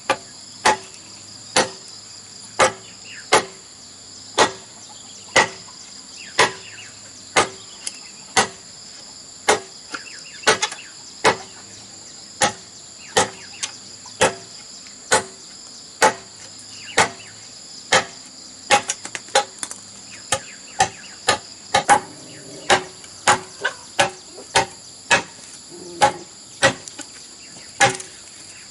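Repeated sharp blows of a hand tool striking wood or bamboo, about one a second and a little quicker in the second half. A steady high-pitched insect drone runs underneath.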